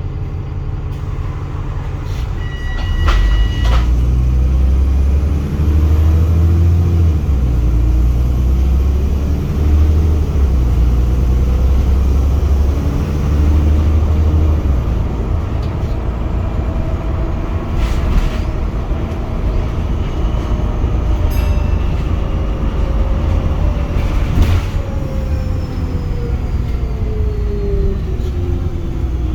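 Wright Pulsar single-decker bus with a blown exhaust, its diesel engine running loud and deep. It pulls away about three seconds in, the engine note rising and falling as it accelerates and changes gear, with a few sharp knocks or rattles along the way.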